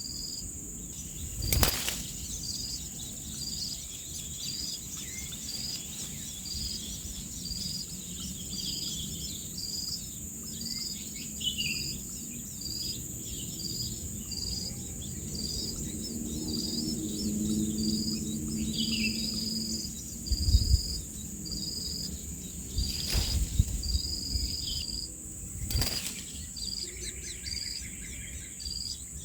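Insects chirping outdoors: a steady high buzz with a regular high chirp a little more than once a second. Short bird calls come in now and then, and a few sharp knocks sound, the loudest a little after the middle.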